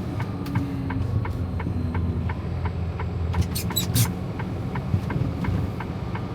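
Semi truck's diesel engine running at low speed, heard from inside the cab, with an even ticking about three times a second, like the turn-signal flasher. A few brief high squeaks come about three and a half to four seconds in.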